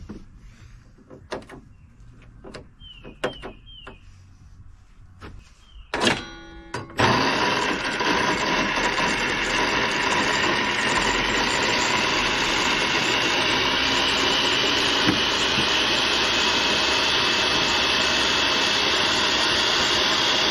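A few light knocks and clicks, then about six seconds in a table saw starts up and rips a thick white oak plank: a loud, steady blade-and-motor noise that carries on through the cut.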